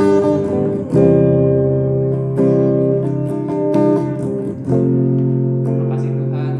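Acoustic guitar strumming slow chords, each left to ring; the last chord rings on and slowly fades near the end.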